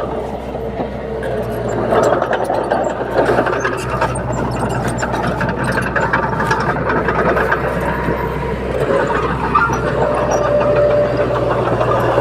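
Bulldozer's diesel engine running steadily, with scattered clanks and knocks on top.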